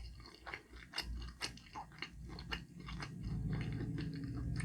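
Close-miked chewing of a shrimp dumpling (har gow): wet mouth clicks and smacks, joined about three seconds in by a low, steady closed-mouth hum.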